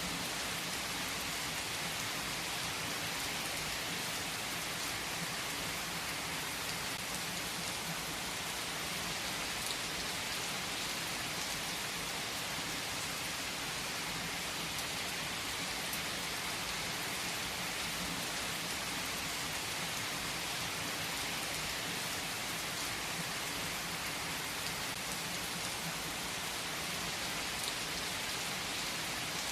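Steady rain falling, an even hiss with no let-up, with a couple of faint sharp pops.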